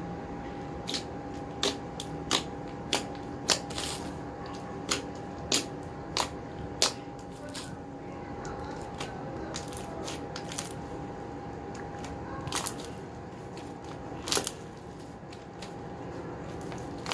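Slime being kneaded and stretched by hand, giving sharp wet clicks and pops, roughly one or two a second for the first several seconds, then a few more near the end. A faint steady tone runs underneath.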